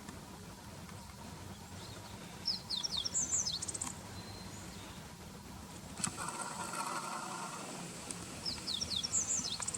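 Meadow bunting singing two short song phrases of quick, high, sliding notes, the first about two and a half seconds in and the second near the end.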